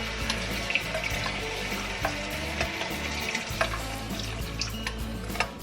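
Seasoned chicken pieces sizzling and frying in hot oil in a pot, with a little water just added, and scattered light clicks of a utensil stirring against the pot.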